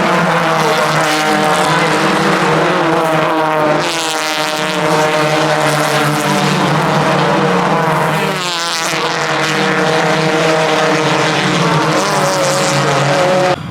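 Race car engine running hard, its pitch sweeping up and down with throttle and gear changes, with marked dips about four seconds and eight and a half seconds in.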